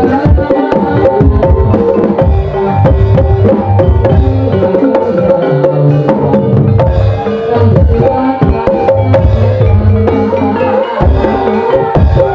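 Gamelan music accompanying an ebeg dance. Rapid hand-drum strokes play over ringing metallophone tones and low sustained gong notes.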